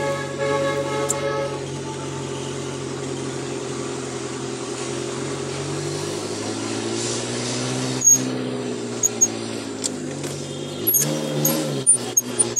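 Car engine running at low speed, heard from inside the cabin, its hum rising gently in pitch past the middle. A few sharp knocks come near the end.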